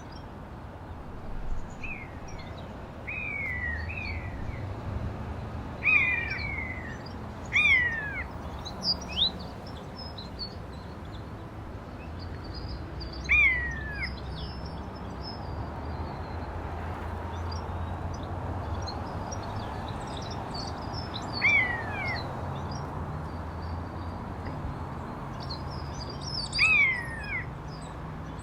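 Birds calling outdoors: short, clear calls that slur downward in pitch, repeated every few seconds, with fainter high chirps between them over a low steady rumble.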